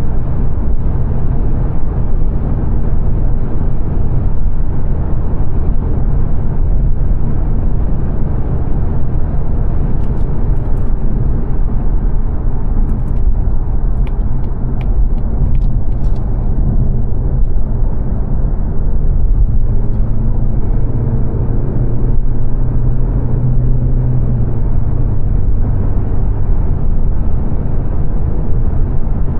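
Steady tyre and road roar with engine hum inside the cabin of a 2022 Mazda 3 saloon cruising on a fast dual carriageway. A low hum swells for a few seconds about two-thirds of the way through.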